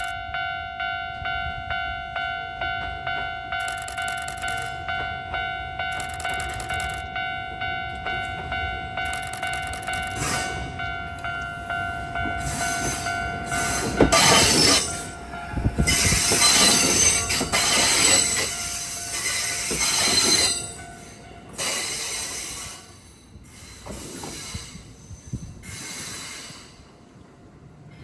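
A railway level-crossing warning bell rings about twice a second. About halfway through, a Kintetsu 1252 series electric train passes close by with its wheels squealing, then the squeal fades away in a few dying surges.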